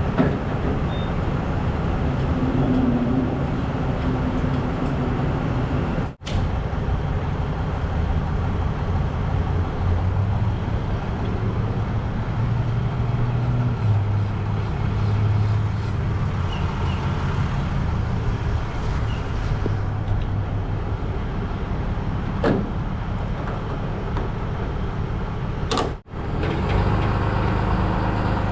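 Excavator's diesel engine running steadily as it digs, with a couple of short knocks late on. The sound cuts out abruptly for a split second about six seconds in and again near the end.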